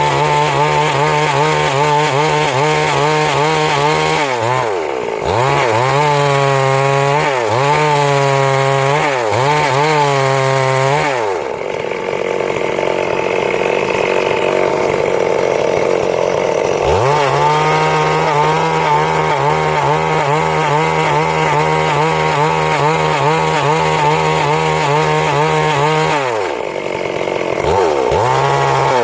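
Stihl MS 382 two-stroke chainsaw running at high revs while cutting wood. Its pitch dips and recovers several times under load, and for a stretch in the middle the steady note gives way to a rougher noise.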